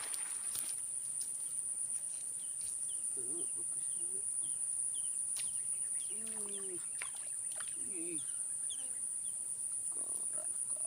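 Outdoor ambience with a steady high-pitched insect drone, a run of short high chirps repeating every half second or so, and a few low, bending animal calls.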